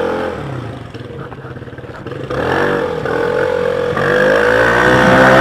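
Yamaha BW'S 125 scooter's single-cylinder engine through an aftermarket exhaust, easing off at first, then accelerating hard from about two seconds in with its pitch rising steadily.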